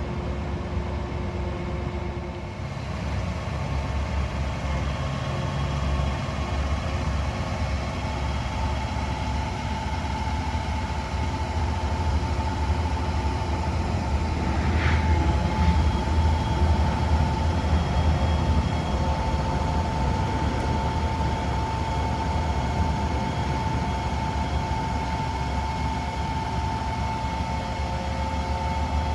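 A diesel engine running steadily with a low rumble and a steady whine, which grows stronger about halfway through after a brief rising squeak.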